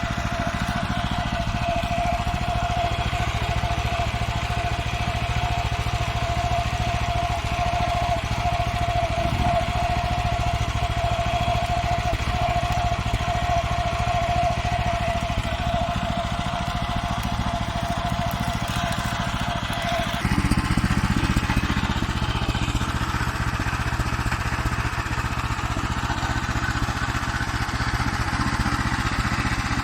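Engine of a Farmer 1511 walk-behind tractor running steadily under way, with a steady whine over its pulsing. About twenty seconds in the whine stops and the low engine rumble gets louder.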